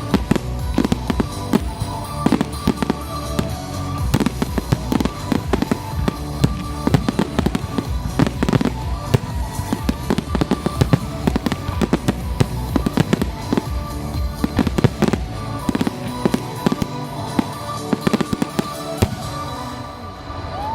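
Fireworks display going off in a dense, rapid barrage of bangs and crackles, thinning out near the end, with music playing underneath.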